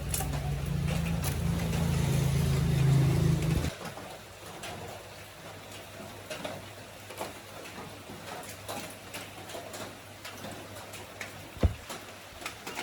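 A motor running with a steady low hum, growing louder, then stopping abruptly a little over three seconds in. After it come light scattered clicks and one sharp knock near the end.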